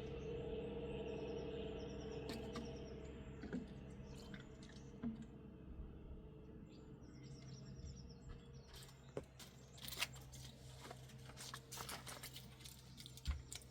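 Faint bird chirps over a steady hum that fades out over the first few seconds, then a run of crunching, crackling clicks in the second half.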